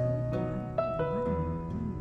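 Background music: soft piano notes struck about every half second over a held low bass, each note ringing and fading.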